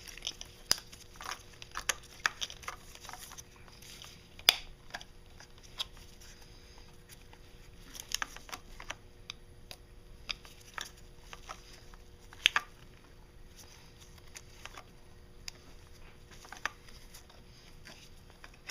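Scattered clicks and taps of hand tools working at Oetiker hose clamps on engine vacuum hoses, with two sharper clicks, about four seconds and twelve seconds in.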